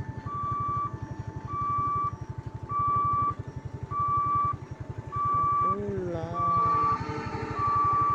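Railway level-crossing warning alarm, a higher and a lower tone alternating about once a second, signalling an approaching train as the barrier comes down. Under it runs a rapid low throbbing, and a little past the middle a pitched sound glides down and levels off.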